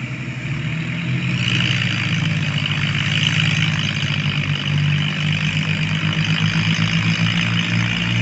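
Tractor engine running steadily with an even pulsing beat, growing louder about a second in.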